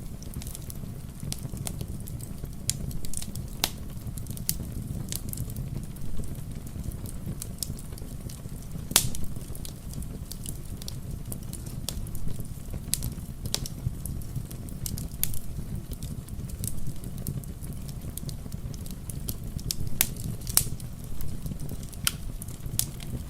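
Wood fire crackling in a fireplace: irregular sharp pops and snaps, the loudest about nine seconds in, over a steady low rumble.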